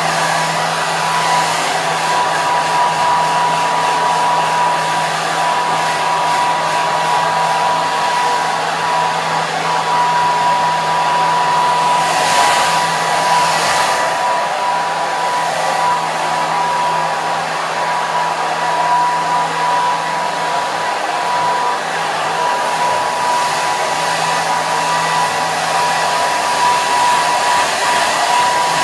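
Hair dryer running steadily: a constant rush of air with a steady whine from its fan motor.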